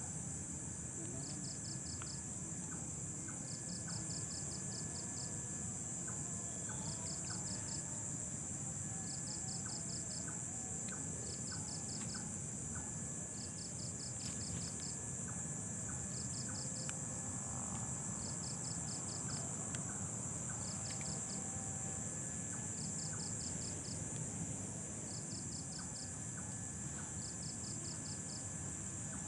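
Night insects: a steady high-pitched drone with a cricket chirping in short rapid trills about every two seconds.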